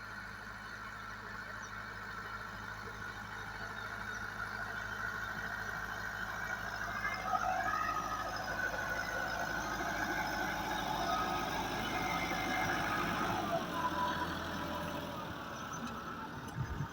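Massey Ferguson 385 tractor's four-cylinder diesel engine running steadily under load while driving a potato harvester off the PTO, growing louder toward the middle and easing off near the end.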